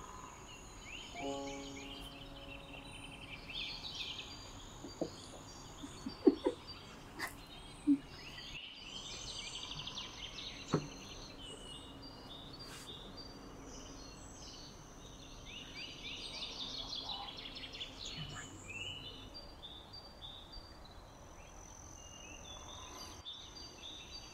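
Small birds chirping in repeated bursts of quick, high twitters, with steady thin whistles above them. A few sharp knocks stand out as the loudest sounds near the middle.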